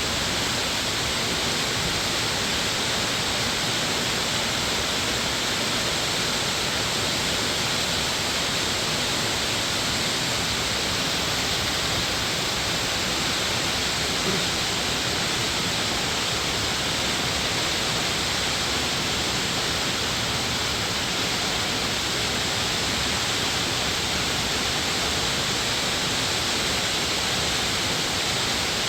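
Rushing water of a mountain valley stream: an even, unbroken hiss, brightest in its upper range.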